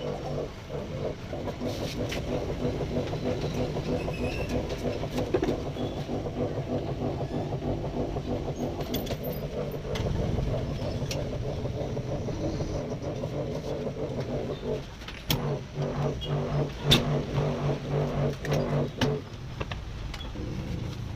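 IFB front-load washing machine running: a steady motor hum with a pulsing rhythm as the drum turns, then a run of knocks and rattles in the last third.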